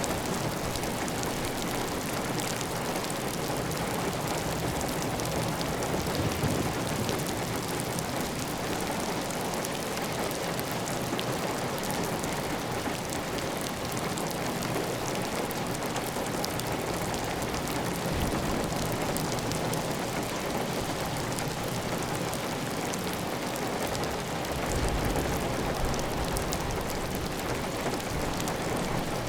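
Heavy, steady rain pattering on a clay-tile roof, dense drop clicks over an even hiss, with water running off the roof edge.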